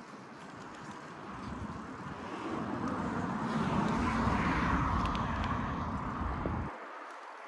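Wind rumble on the microphone and road and traffic noise while riding an e-bike along a city street, swelling to its loudest mid-way; the low rumble cuts off suddenly near the end.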